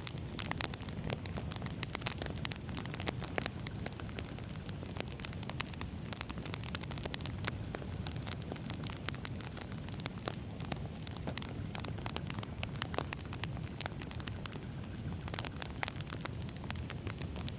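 Burning firewood crackling: a steady low rumble of flames with many sharp, irregular pops and snaps.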